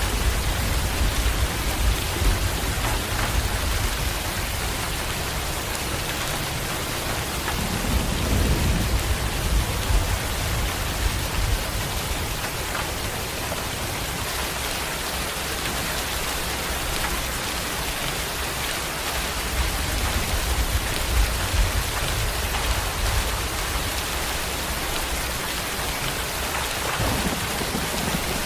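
Steady rain falling, with low rolls of thunder rumbling under it three times: at the start, about eight seconds in and about twenty seconds in.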